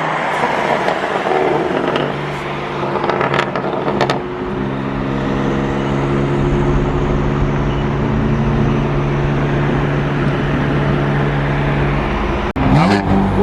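BMW M4 GTS's twin-turbo inline-six running at a steady cruise under road and tyre noise, holding an even pitch for most of the time. Near the end the pitch sweeps up as the car accelerates.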